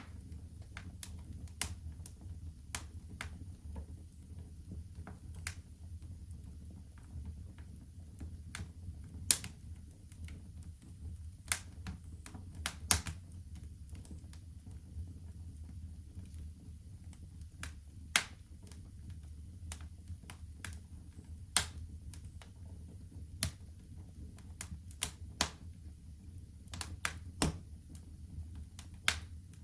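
Fire crackling in a fireplace: irregular sharp pops and snaps, with a louder pop every couple of seconds, over a steady low rumble.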